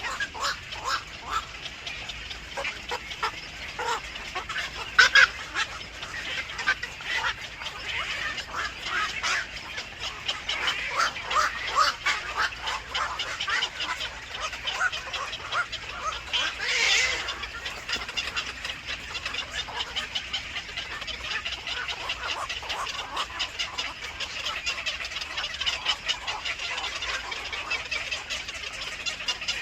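Birds calling in a steady stream of rapid short chirps. There is a sharp louder call about five seconds in and a longer, harsher call around seventeen seconds.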